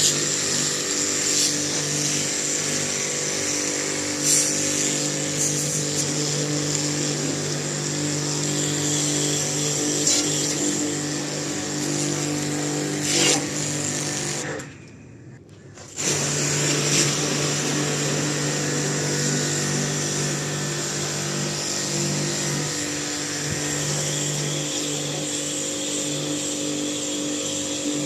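A small electric motor-driven machine running with a steady hum and a high hiss. It stops for about a second and a half roughly halfway through, then starts again.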